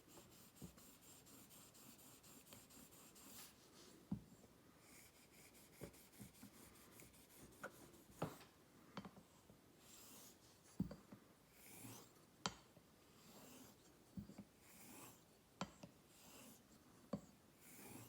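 Hollow-ground straight razor drawn across a wet honing stone, each pass a faint scraping hiss, with sharp clicks when the blade is flipped over on its spine between strokes.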